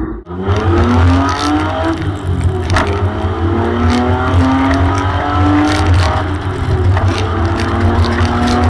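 Nissan 200SX S12 race car's 3.3-litre VG33E V6, on Isky 258 Mega hydraulic cams, accelerating hard: its pitch climbs, then falls back at each upshift, several times over.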